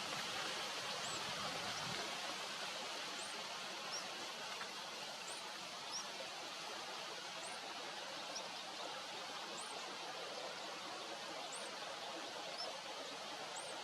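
A bird's short, thin, high-pitched call repeating about every two seconds over a steady outdoor hiss.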